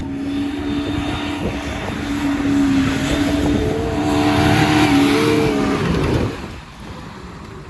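Off-road vehicle motor running under load, a steady droning pitch that wavers up and down, then falling away sharply about six seconds in.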